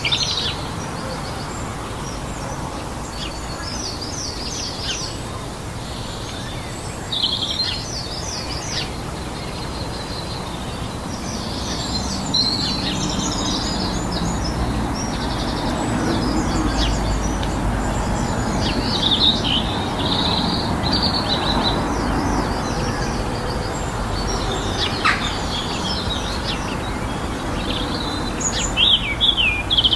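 Several small birds chirping, with many short, high calls scattered throughout over a steady background rush of outdoor noise.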